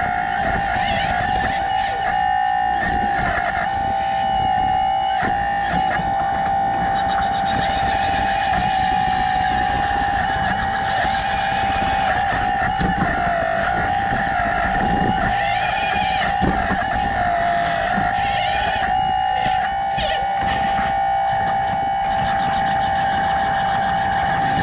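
RC hydraulic excavator's pump whining steadily at a high pitch, sagging briefly a few times as the hydraulics take load, with scattered clicks and scrapes from the digging; it cuts off suddenly at the end.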